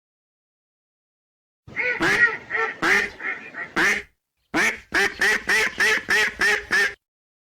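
Ducks quacking: a cluster of quacks starting about two seconds in, then after a short break a fast, even run of about eight quacks that stops abruptly.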